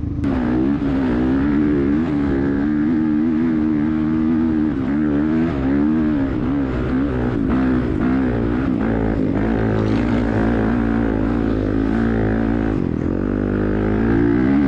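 Off-road vehicle engine running under way at a fairly steady speed, its pitch wavering up and down slightly with small throttle changes.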